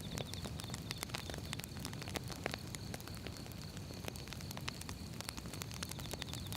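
Firewood burning, crackling with many quick, irregular sharp pops over a low steady rumble.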